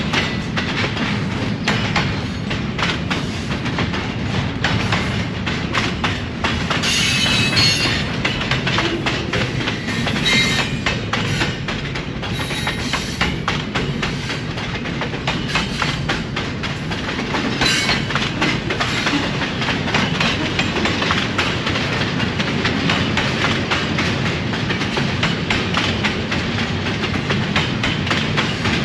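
Train rolling past at close range, its wheels clicking steadily over the rail joints, with a few brief high-pitched squeals.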